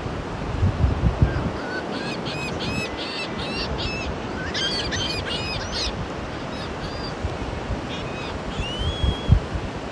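Birds calling in a rapid run of high, repeated notes, about four a second, for a few seconds, then a few scattered calls and one longer call near the end, over steady surf and wind noise. Wind buffets the microphone at the start and again near the end.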